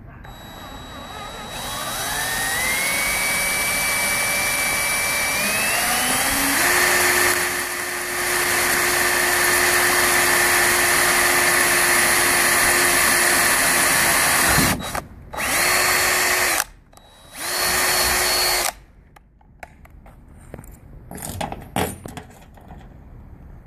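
Electric drill spinning up and boring into the metal body of a 2005 Ford F-150, its motor whine stepping up in pitch twice as it gets to speed, running for about thirteen seconds and then stopping. It is followed by two short bursts of drilling and some clicks and handling noise.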